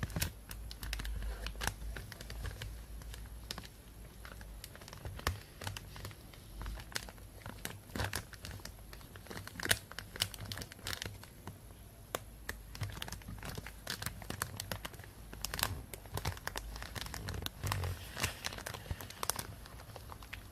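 Plastic bag being crinkled and rustled, a continuous run of irregular sharp crackles.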